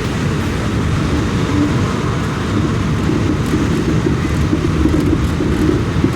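Steady low rumble of a moving vehicle, heard from inside, with even loudness throughout.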